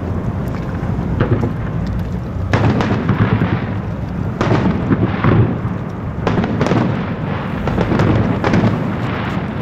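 Fireworks display: a continuous deep rumble of shell bursts with repeated sharper bangs in clusters, and crackling throughout.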